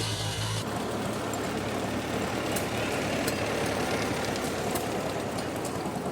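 Engine running, most likely an antique tractor or stationary engine. About half a second in, a steady low hum switches abruptly to a rougher, noisier running sound with a few sharp clicks.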